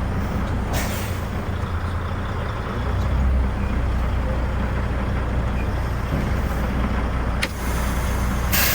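Semi truck's diesel engine idling steadily, with a short hiss of compressed air from the air brake system about a second in and a longer hiss near the end, plus a sharp click just before it.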